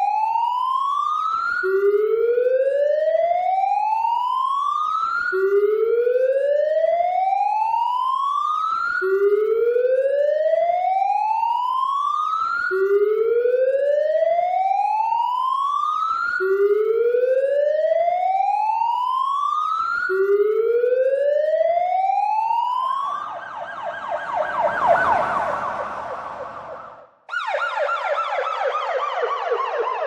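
Emergency vehicle siren sounding a repeated rising whoop: the pitch sweeps up and cuts off at the top, about every four seconds. Near the end it gives way to a rougher, noisier stretch, then after a brief drop-out to a different siren with falling tones.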